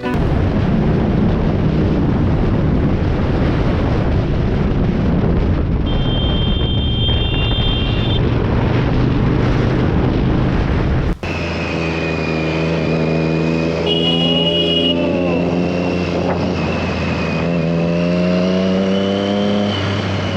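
Motorcycle on the move, heavy wind noise over the microphone with the engine underneath. About eleven seconds in it cuts abruptly to a steadier engine note whose pitch rises near the end. Two short high-pitched beeps sound along the way.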